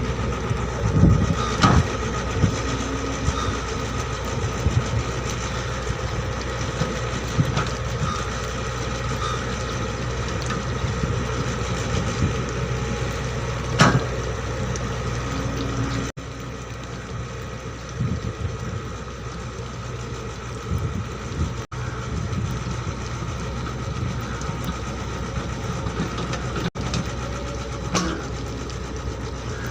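L&T hydraulic excavator's diesel engine running steadily, with occasional short knocks, once loudest about fourteen seconds in.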